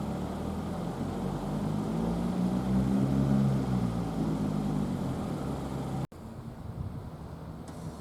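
373 series electric train moving, its motors giving a low hum that rises and falls slightly. The sound cuts off abruptly about six seconds in, leaving a quieter steady background noise.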